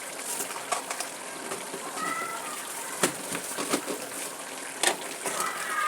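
Chicken curry cooking in a pan: a steady sizzle with frequent sharp pops and crackles.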